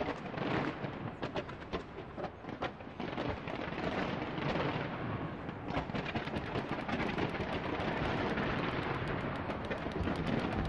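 Fireworks display: a run of aerial shells bursting in quick succession, turning into a dense, rapid crackle from about six seconds in.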